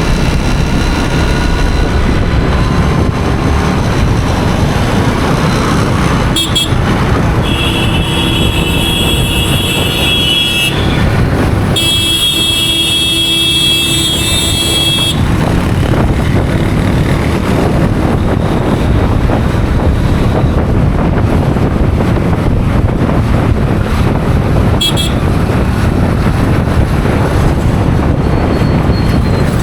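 Road noise on a motorcycle ride in city traffic: a steady rumble of engine, tyres and wind. A vehicle horn sounds twice near the middle, each blast about three seconds long, with a short toot just before and another later on.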